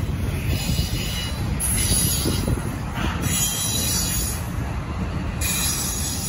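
Double-stack container freight train passing close by: a steady low rumble of wheels and cars on the rails, with a high hiss that cuts in and out every second or two.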